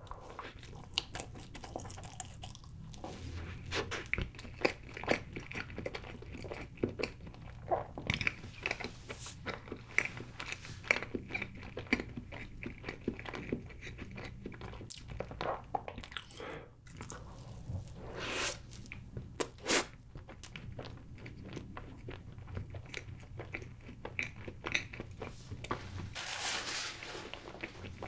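A bite into a slice of layered chocolate cake, then steady chewing with many small crunches.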